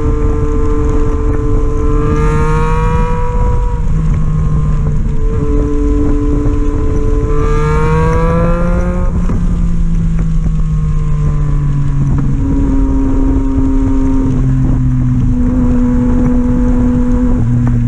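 Motorcycle engine running at road speed under load, its pitch rising twice as it accelerates and dropping back suddenly at each gear change, then holding steadier pitches, over a constant low wind rumble on the helmet-camera microphone.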